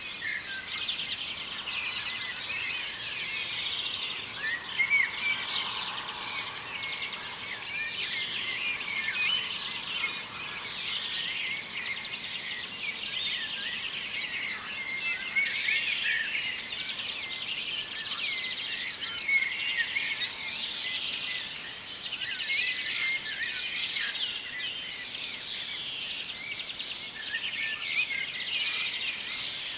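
Morning chorus of many songbirds singing at once: overlapping high chirps, whistles and trills without a break.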